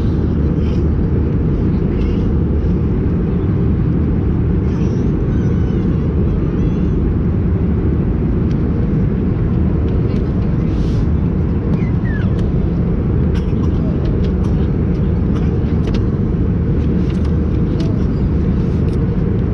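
Steady, loud cabin noise of an Airbus A320-232 in flight: an even, deep rumble of engines and airflow with no change in level.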